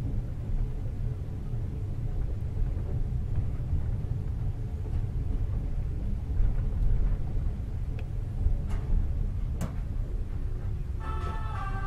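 Steady low rumble of a passenger train rolling slowly, heard from inside the carriage, with a few sharp clicks of the wheels near the end. Music starts in the last second.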